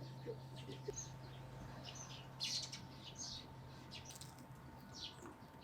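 Small birds chirping: short, high calls scattered a few at a time over a faint steady low hum that stops about four seconds in.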